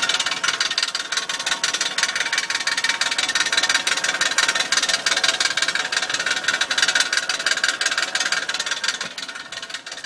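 Lexus SC400's 1UZ V8 engine running with a rapid, steady ticking clatter, an unidentified noise the owner wants diagnosed. It drops in level near the end.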